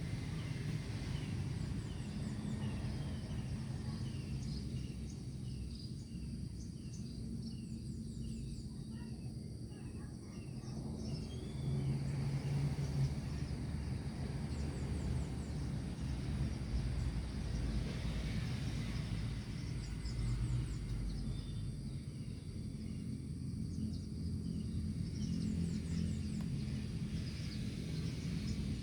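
Outdoor ambience with a steady low rumble, over which a bird repeats short, falling notes about twice a second for roughly the first ten seconds, returning faintly near the end, with faint high ticking.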